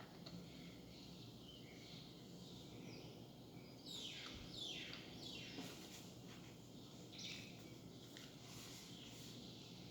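Faint calls of wild birds over a quiet background, with a run of quick falling chirps about four seconds in and more calls near the end.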